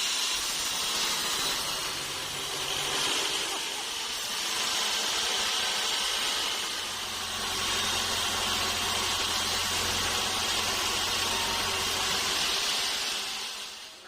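Sawmill saw cutting through a mahogany log, a steady high-pitched rushing sound, with a low hum added through the middle that fades out near the end.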